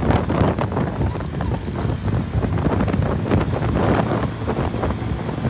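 Heavy, gusty wind rush buffeting the microphone on a Suzuki 150cc motorcycle riding at motorway speed, with the engine running underneath.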